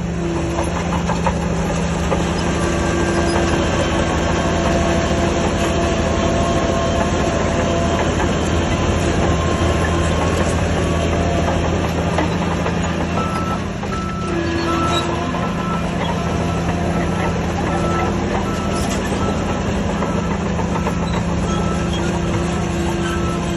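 Heavy diesel earthmoving machinery running steadily under load. From about halfway a reversing alarm beeps repeatedly at an even pace.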